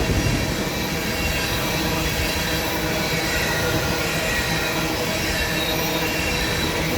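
Empty tank cars of a freight train rolling steadily past, their wheels rumbling on the rails, which are singing with faint high steady tones. The singing is put down to rail grinding done a week or two earlier.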